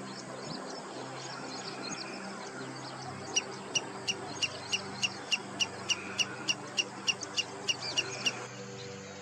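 Wood sandpiper calling: a quick, even run of sharp, high call notes, about four a second. It starts about three seconds in and stops shortly before the end, after a few scattered faint chirps.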